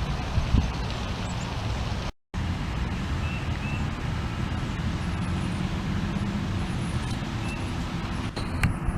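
A few faint, short bird chirps over a steady low rumble of outdoor background noise. The sound cuts out for a moment about two seconds in.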